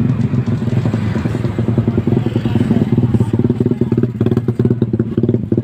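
Motorcycle engine running at low speed with a rapid, even putter, heard close from on the bike itself.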